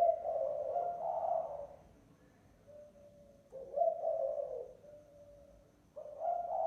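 Spotted dove cooing in low phrases: a long two-part call, then two shorter calls about two and a half seconds apart. It is the call of a lure bird used to draw in wild doves.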